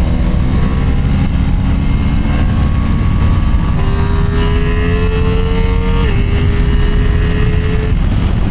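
Motorcycle engine running at road speed under heavy wind and road noise, its pitch climbing steadily, then dropping about six seconds in as it shifts up a gear.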